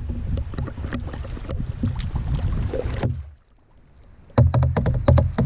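Kayak moving on a river: a rumble of water and hull with many small knocks and scrapes. It drops away for about a second a little past three seconds in, then comes back louder with a dense run of sharp knocks.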